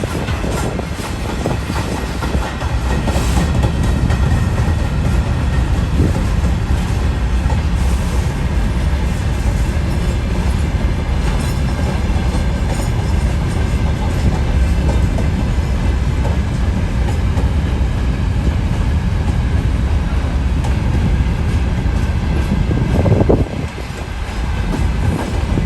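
Train running on the rails: a steady low rumble with wheel clatter, dipping briefly near the end before carrying on.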